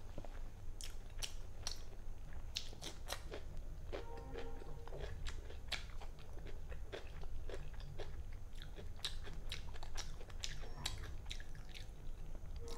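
Close-miked chewing and mouth sounds of a person eating by hand: a run of sharp clicks and crunches over a steady low hum. A brief humming tone comes about four seconds in.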